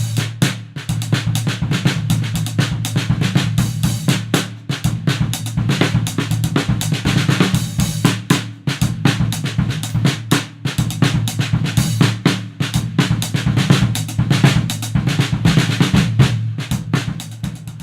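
Live band music driven by a drum kit: dense, fast drum hits over a steady low bass line.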